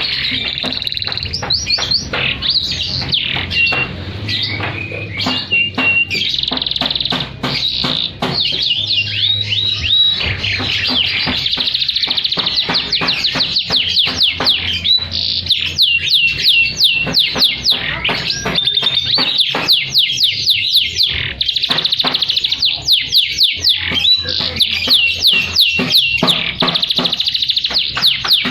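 A domestic canary singing vigorously in a continuous song of rapid trills and quickly repeated chirps, moving between high notes and lower rolling phrases.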